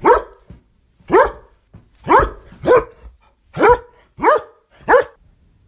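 A dog barking, seven sharp barks about a second apart, some coming in quick pairs.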